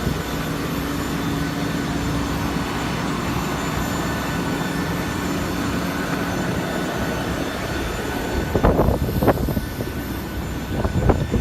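Jet aircraft noise on an airport apron: a steady rumble and whine with a few faint steady tones. A few short, sharper, louder noises come near the end.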